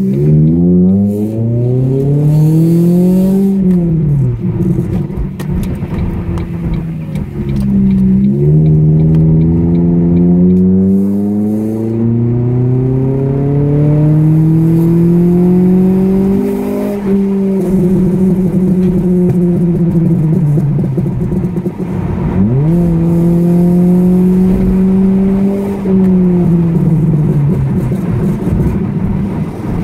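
Ford Focus ST170's 2.0-litre four-cylinder engine, decatted and breathing through a Pipercross Viper intake and RS Mongoose exhaust, heard from inside the cabin while driving. The note climbs in pitch as the car accelerates and drops sharply at each gear change. It holds steady at cruise for stretches and falls away as the car slows.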